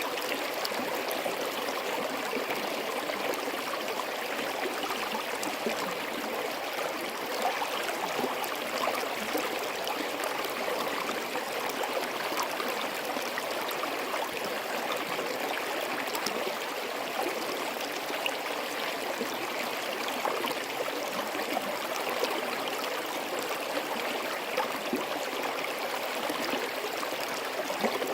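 Small forest stream flowing and gurgling steadily over rocks among snow and ice.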